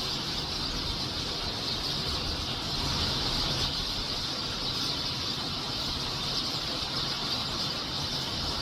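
A large flock of Eurasian tree sparrows chirping all at once, merging into a continuous high-pitched din, over a steady low rumble.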